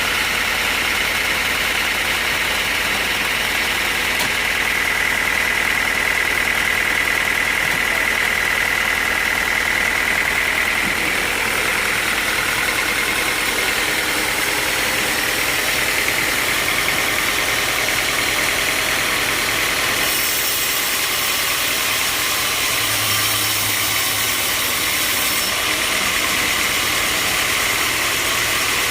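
Sawmill machinery running steadily, with a high whine that climbs slightly in pitch and fades out about halfway through. A brighter hiss joins for several seconds later on.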